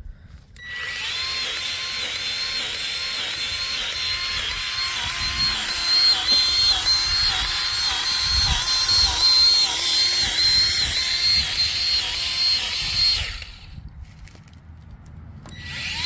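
Electric grease gun motor whining steadily, its pitch dipping slightly in a regular pulse with each pump stroke as it forces grease into a snowplow's knuckle fittings. It stops about 13 seconds in and starts again near the end.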